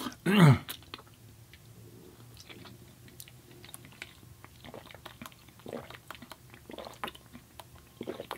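A person chewing a mouthful of food close to the microphone, with soft wet clicks and smacks. About half a second in there is a short vocal sound that falls in pitch.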